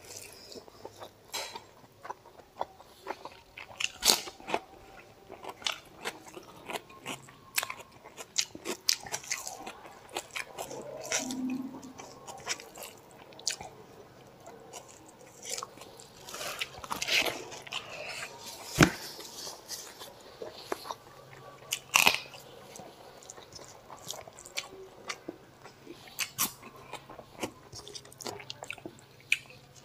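Close-miked eating sounds: chewing and lip smacks while eating mutton curry and rice by hand, heard as many short, sharp, wet clicks, with fingers working the rice on the plate.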